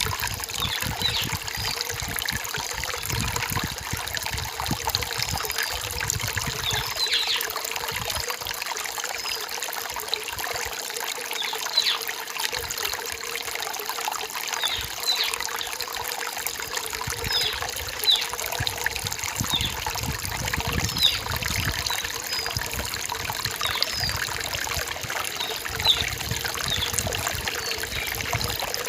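Rainforest stream trickling steadily over stones, with short high bird chirps scattered throughout.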